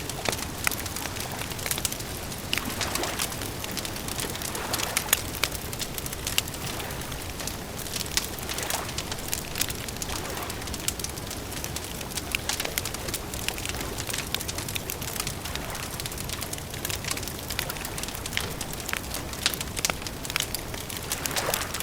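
Wood fire crackling, with many sharp, irregular pops and snaps over a steady hiss.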